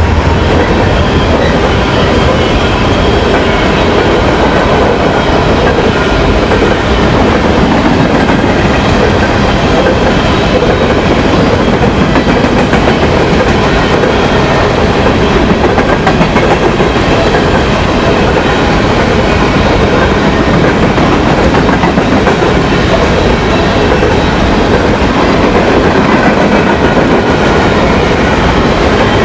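A train rolling past close by: a loud, steady rumble and clatter of railcar wheels on the track, with a faint ringing squeal from the wheels above it.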